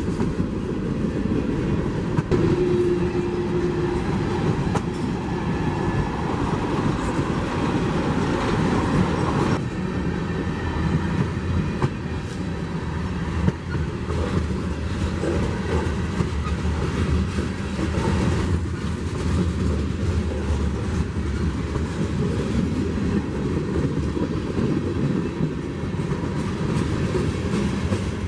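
Freight train rolling past on the rails: steady, loud noise of steel wheels running over the track.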